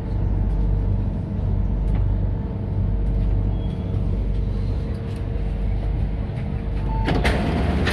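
Inside an MTR C-Train carriage at a station platform: the train's steady low rumble and hum, with a few faint steady tones. About seven seconds in there is a sudden rush of noise and a beep tone starts: the doors opening with their chime.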